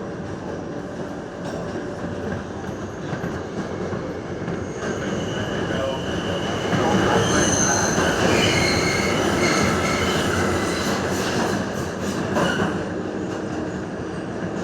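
New York City Subway R142A train running at speed, a steady rumble of wheels on rail. About five seconds in, high wheel squeal sets in and grows louder for several seconds before easing near the end.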